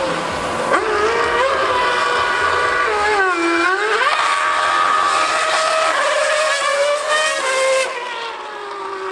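High-revving racing engine on a circuit, its pitch climbing, dipping sharply and rising again about three seconds in, then holding high before falling away near the end.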